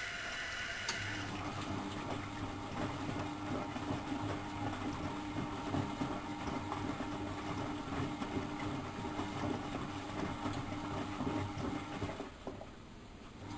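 Miele Professional WS 5105-C washing machine running a wash. A hissing water-like sound stops about a second in. Then the drum motor runs with a steady hum and a busy churning sound, and falls away for about a second near the end.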